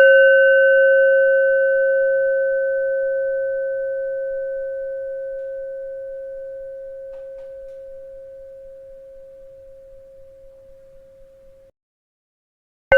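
A bell struck once, its pure, low-pitched ringing tone with a few fainter overtones fading slowly over about twelve seconds before cutting off abruptly. After a moment of silence the same bell strikes again at the very end.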